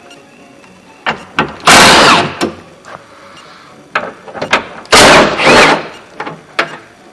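Metal and glass parts inside a pickup truck door being worked: two loud scraping bursts with a squeal in them, about two seconds in and again near five seconds, between short knocks and clicks.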